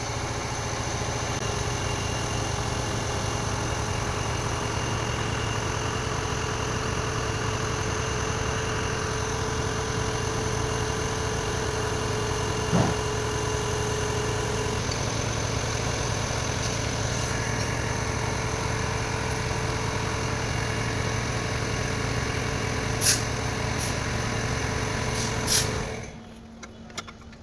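Tata Harrier's diesel engine idling steadily, with a thin steady whine through the first half and a few sharp clicks. The engine is shut off near the end.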